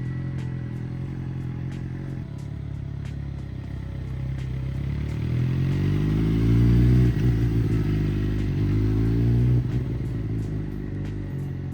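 A vehicle engine running steadily, then revved twice, its pitch rising each time before dropping off suddenly.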